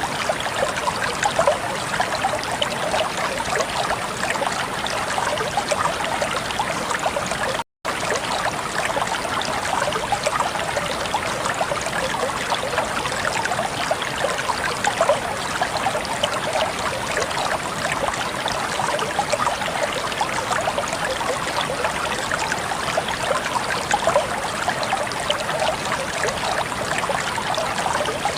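Flowing water trickling and splashing steadily in a stream, with a dense patter of small splashes. The sound cuts out for a split second about eight seconds in.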